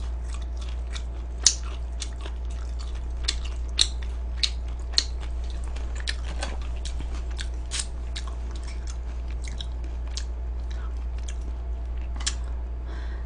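Close-up chewing and biting of crispy fried chicken: many sharp, irregular crunches, a few of them louder, over a steady low hum.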